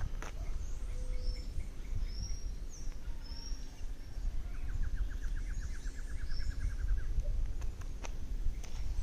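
Outdoor birdsong: scattered short, high chirps, then a rapid ticking trill of about twenty notes in the middle, over a steady low background rumble.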